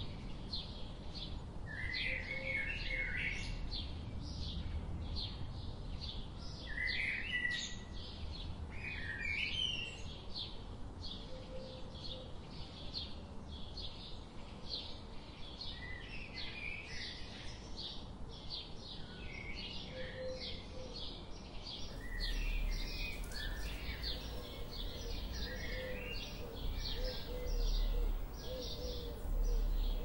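Songbirds calling and singing: a steady run of short high chirps about three a second, broken by several brief warbled phrases, with a low repeated call joining in near the end.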